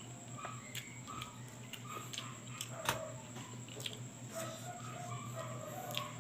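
Close-up eating sounds: chewing and lip smacking with many soft wet clicks, and one sharper click about three seconds in, over a steady low hum.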